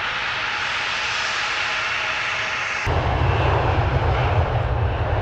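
Airliner engines running, heard in two spliced clips: a steady hissing engine noise, then an abrupt switch about three seconds in to a louder, deeper rumble.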